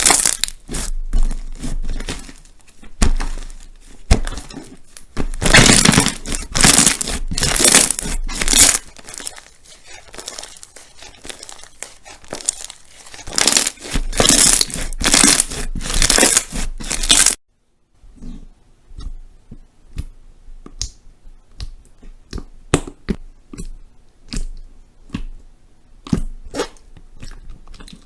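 Crunchy slime being squeezed and pressed by hand, giving dense crackling and popping. About two-thirds of the way through it stops abruptly, and a softer run of separate sticky clicks and pops follows.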